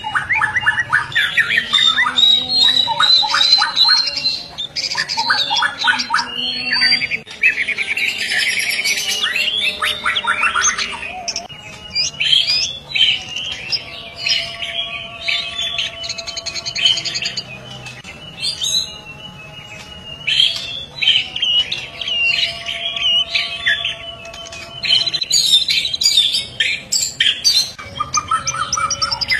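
A white-rumped shama (murai batu) singing a loud, continuous, varied song of whistles, rapid trills and harsh chattering phrases, with hardly a pause.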